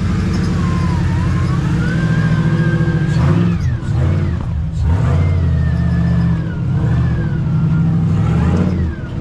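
Off-road rig's engine running and revving under load while crawling the trail, with a high whine that rises and falls in pitch along with it. The engine drops off briefly twice, a little over three and a half and about four and a half seconds in.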